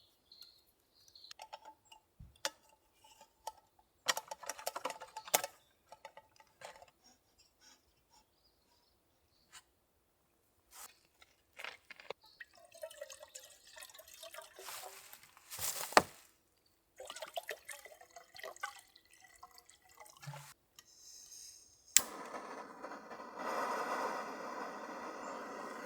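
Camp gear being handled: scattered clicks, taps and rustles, then, about 22 seconds in, a sharp click followed by a steady rushing hiss.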